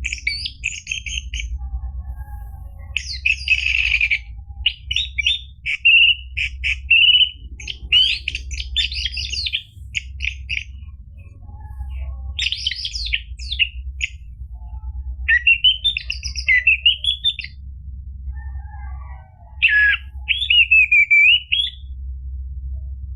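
Orange-headed thrush singing in short bouts of rapid, varied whistles and chirps, separated by brief pauses. A steady low hum runs underneath.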